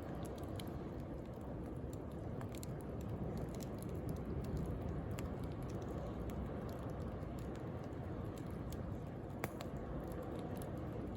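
Wood bonfire crackling with scattered small pops, one sharper pop about nine and a half seconds in, over a steady wash of sea waves.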